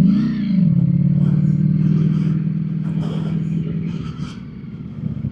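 Naked superbike's engine idling after a short rev blip at the start. It settles into a steady idle that gets quieter about four seconds in.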